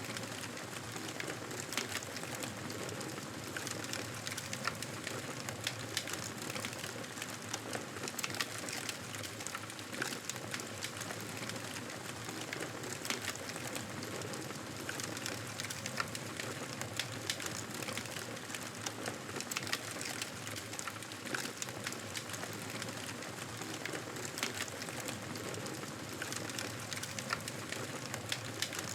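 Wood fire crackling in a fireplace: a steady hiss with many small irregular pops and snaps throughout.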